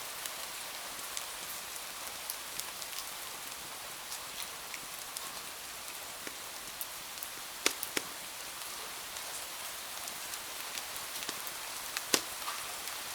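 Steady rain hiss with scattered small crackles and pops from a wood fire; two sharper pops come just past halfway and another near the end.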